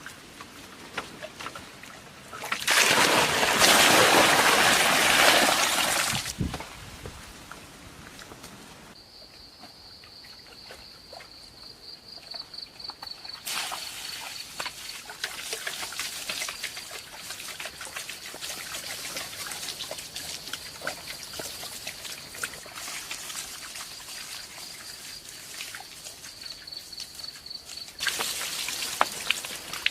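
Water trickling, with a loud rush of pouring water for a few seconds early on and again near the end. A thin, high pulsing chirp begins about a third of the way in and carries on.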